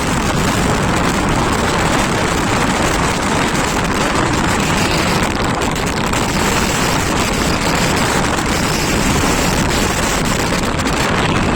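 Steady rush of wind buffeting the microphone over the running noise of a moving vehicle at speed.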